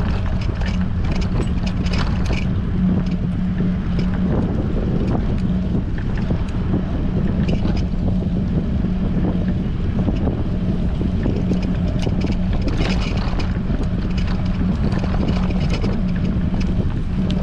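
Wind buffeting an action camera's microphone while cycling, a heavy steady rumble with a constant low hum and scattered small ticks and rattles.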